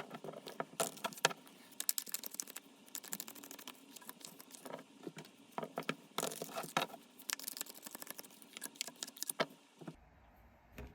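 Tarot cards being shuffled and handled, a dense irregular run of quick clicks and rattles that thins out near the end.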